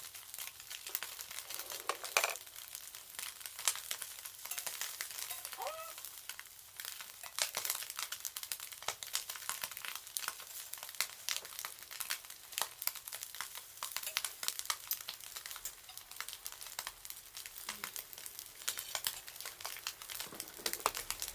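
Wood fire crackling, with many irregular sharp pops over a steady hiss.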